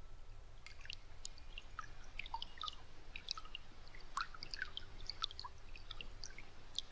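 Water dripping: many small drops plinking at irregular intervals, over a faint low hum.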